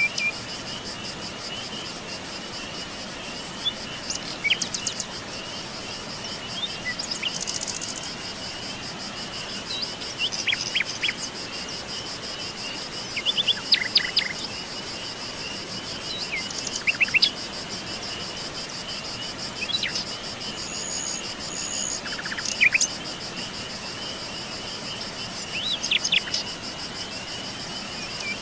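Outdoor chorus of insects trilling steadily, with two high pulsing trills layered, while birds give short chirps and calls every few seconds.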